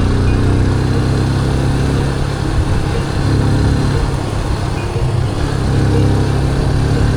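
Motorcycle engine running under way, its note swelling and easing with the throttle, over steady wind and road noise.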